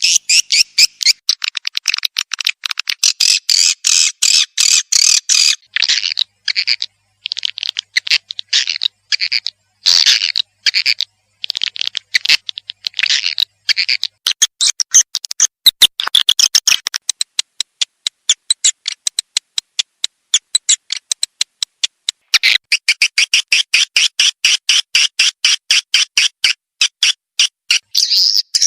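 Swiftlet lure recording: fast trains of high, buzzy chirps and clicks from swiftlets, dense at first, sparser and broken by short gaps in the middle, then dense again near the end. This is a call-and-roost sound, played to draw swiftlets into a nesting house.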